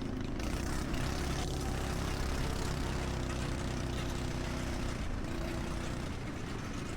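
Engine running at a steady speed, with a slight change in pitch about five seconds in.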